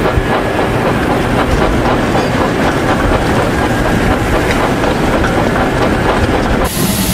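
A train running along the track: a dense, steady rumble with the clickety-clack of wheels over rail joints. The sound changes abruptly near the end, as one dubbed train effect gives way to another.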